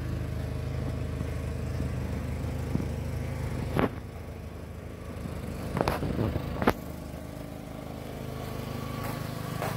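A 2003 Volkswagen Beetle's 2.0-litre four-cylinder engine idling steadily, with a few sharp clicks or knocks near the middle.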